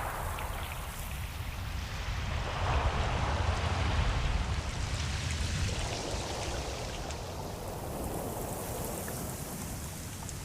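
Ocean surf: a steady wash of wave noise that swells into a loud, deep-rumbling surge a few seconds in, then eases back into a softer hiss.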